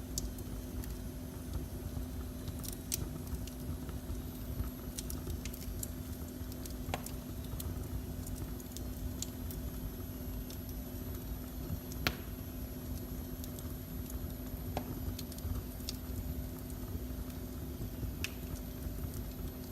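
Wood fire burning in a fireplace, crackling with scattered sharp pops at irregular intervals, the loudest about twelve seconds in, over a steady low rumble and hum.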